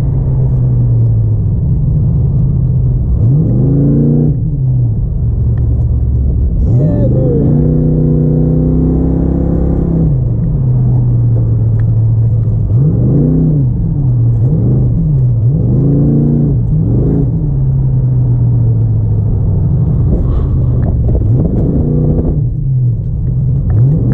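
Car engine under hard driving, its pitch rising and falling over and over as it accelerates and backs off, sometimes several times a second, between steadier stretches.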